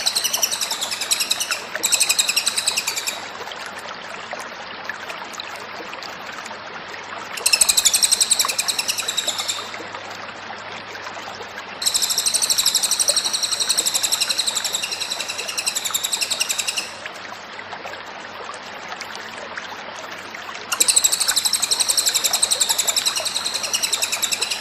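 Cililin songbird singing in rapid, high-pitched repeated-note phrases, in five bouts of one and a half to five seconds separated by pauses of a few seconds. A steady hiss like running water lies underneath throughout.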